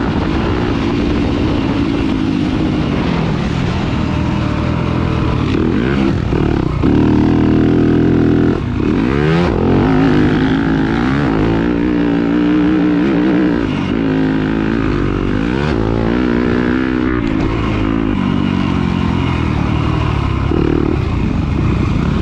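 Off-road dirt bike engine racing, revving up and down over and over as the rider works the throttle and shifts gears.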